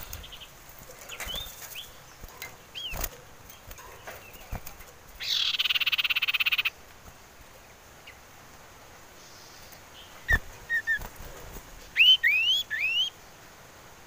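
Common iora calling. It gives a few short rising whistles, then a loud rattling trill of about a second and a half. Around ten seconds in come a few short chips, and near the end three quick rising whistles, with a couple of sharp knocks in between.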